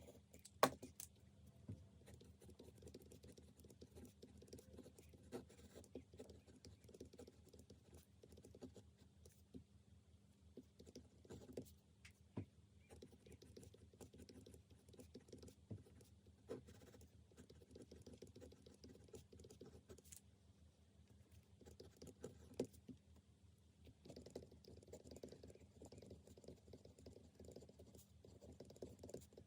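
Faint, irregular small ticks and taps over a steady low hum.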